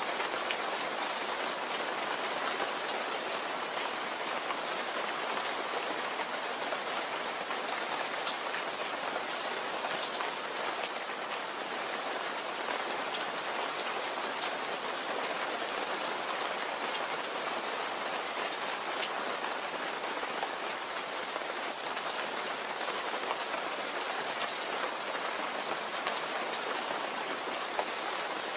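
Steady rain falling on a surface, with fine scattered drop ticks over an even rushing hiss.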